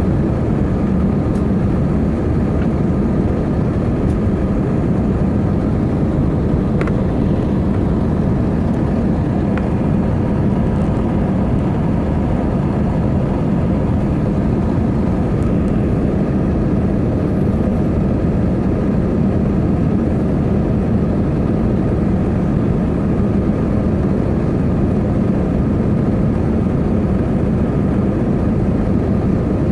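Airbus A320 cabin noise: the steady drone of the jet engines and airflow heard from inside the cabin, with a low hum and faint steady tones above it.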